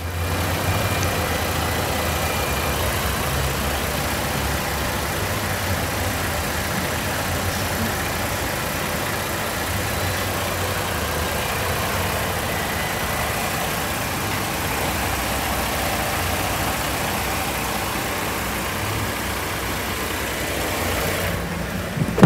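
Holden Commodore engine idling steadily. It ends with a sharp knock.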